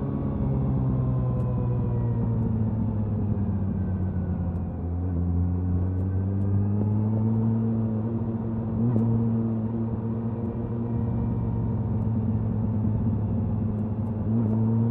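Suzuki Hayabusa's inline-four engine and exhaust at highway cruising speed. The engine note dips about four seconds in, climbs back over the next few seconds, then holds steady, with wind rush over the microphone.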